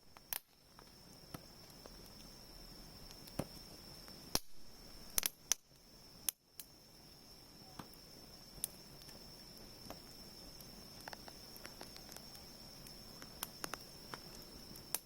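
Wood bonfire crackling, with irregular sharp pops and snaps, several louder ones clustered between about four and six and a half seconds in, over a soft steady hiss and a thin steady high tone.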